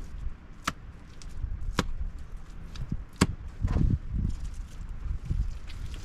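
Three sharp strikes of a hand tool, about a second apart, with duller low thuds between them.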